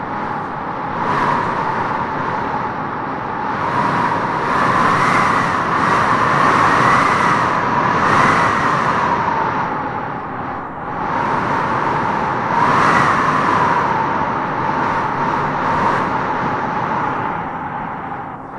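Wind blowing in gusts: a steady rush with a howling, whistling tone that rises and falls, swelling twice, the second swell about two thirds of the way through.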